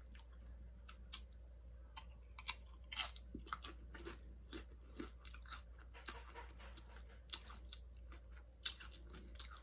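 A person chewing a mouthful of nacho tortilla chips close to the microphone: a string of irregular, crisp crunches, the loudest about three seconds in and again near the end.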